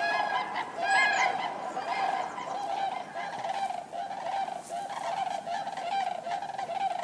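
A flock of common cranes calling, many overlapping trumpeting calls, with a louder call near the start.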